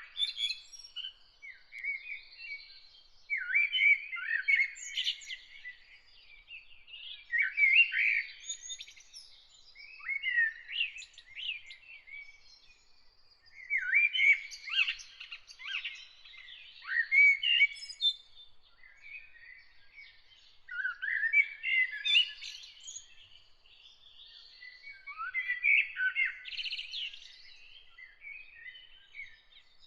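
A songbird singing short, varied warbling phrases, one every two to three seconds, with a faint steady high tone behind them.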